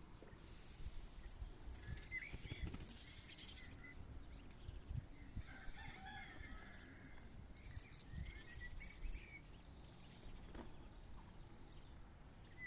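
Quails making soft, short peeping calls, with scattered small clicks and rustles.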